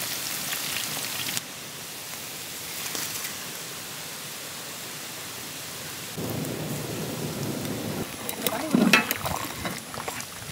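Hot oil sizzling as fish fry, cutting off about a second and a half in to a quieter steady hiss. From about six seconds a louder, lower noise of a big pot of curry boiling, with a few sharp knocks and one loud knock near the end.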